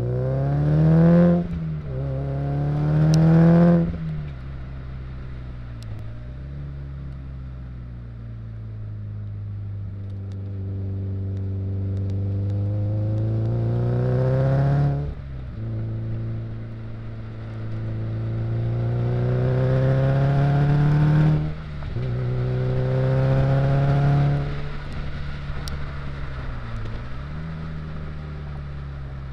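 Car engine accelerating hard through the gears, its revs climbing in long pulls and falling back sharply at each gear change or lift off the throttle, five times over.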